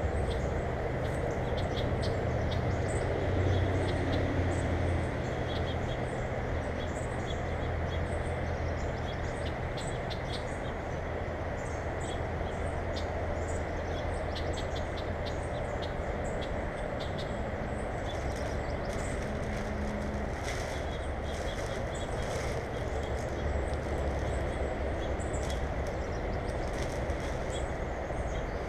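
Small birds chirping in many short, scattered calls over a steady low rumbling background hum.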